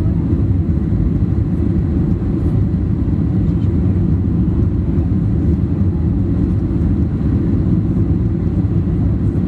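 Steady low rumble inside a jet airliner's passenger cabin: engine and airflow noise, even and unbroken.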